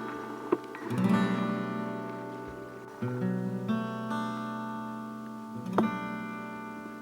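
Background music: acoustic guitar chords strummed about a second in and again about three seconds in, each left to ring and fade.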